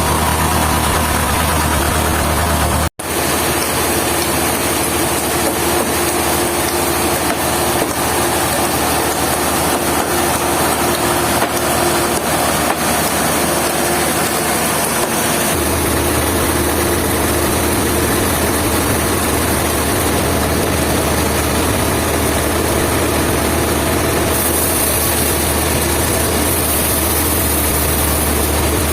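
Engine running steadily at a constant speed, with a momentary break about three seconds in.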